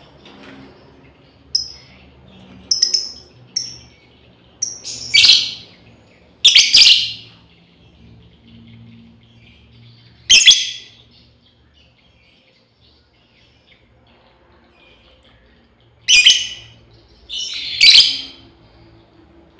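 Lovebird calling: a few short high chirps, then about six loud, shrill, harsh calls with pauses between them. This is a female calling to its companions.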